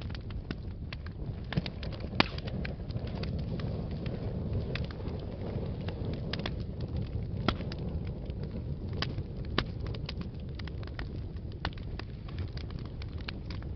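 Wood fire burning in a fireplace: a steady low rumble of flames with frequent crackles and sharp pops, the loudest coming about two seconds in.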